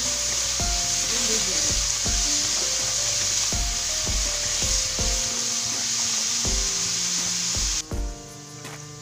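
Cubed potatoes frying in hot oil in a pan, a steady sizzle, with a wooden spatula stirring and rubbing them against the pan. The sizzle cuts off abruptly near the end, and music with a regular beat plays underneath.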